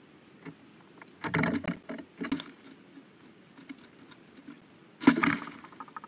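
Clattering knocks and scratchy taps from a blue jay on a wooden platform feeder close to the microphone: bursts about a second in, and again near two and a half seconds. The loudest burst comes about five seconds in, with light ticks between the bursts.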